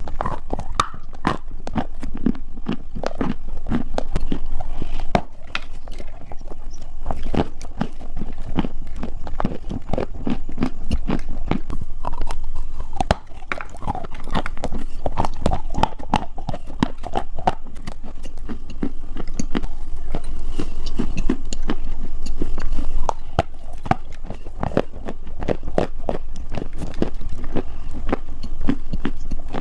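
Close-miked biting and chewing of dry edible clay: a dense, continuous run of crisp crunches and clicks.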